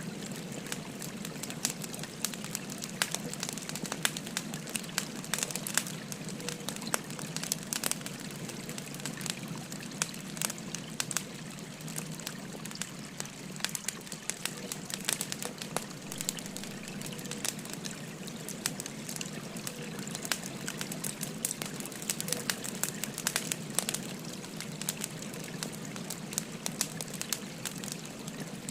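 Wood fire crackling with frequent sharp, irregular pops, over the steady babble of a flowing river.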